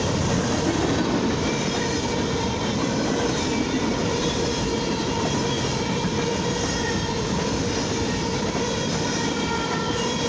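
Mixed freight train's covered hoppers and boxcars rolling past at close range: a steady rumble and rattle of steel wheels on the rails, with a faint steady ringing tone over it.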